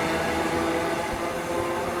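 Train moving through the station: a steady whine of several tones over a rumbling noise, easing slightly in loudness.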